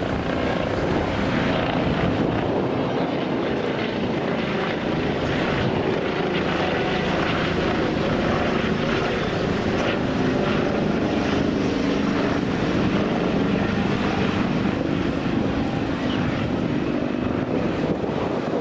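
Steady engine drone with a rushing noise over it, holding an even level throughout.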